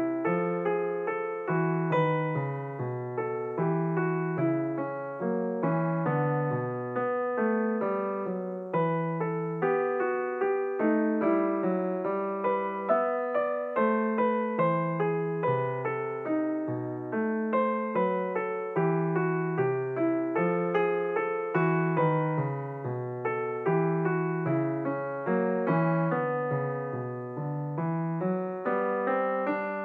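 Background solo piano music, a gentle piece with notes struck at an even pace and a low bass line under the melody.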